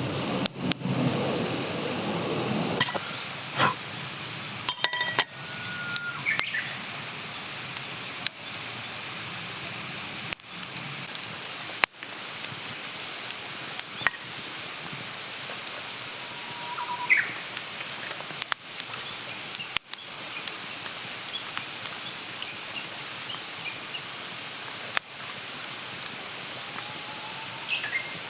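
Wood campfire crackling: a steady hiss with scattered sharp pops and snaps, and a few brief squeaky whistles.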